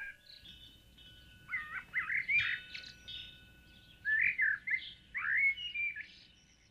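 Birds chirping and singing in short warbling phrases, in two bursts of song, fading out near the end.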